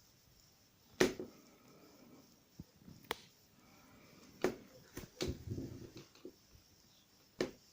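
Sharp clicks, about six spread irregularly over several seconds, from an electric kettle's on/off switch being pressed again and again, with some handling noise in between; the kettle will not switch its heating element on.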